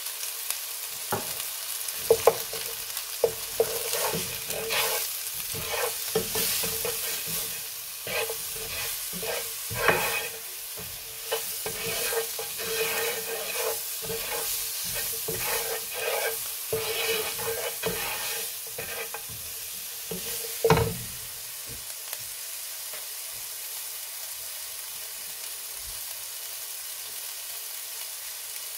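Chopped scotch bonnet chillies, red pepper, onion and garlic sizzling in oil in a frying pan as a wooden spoon stirs and scrapes them, with frequent knocks against the pan. A louder knock comes about 21 seconds in, after which only the steady sizzle remains.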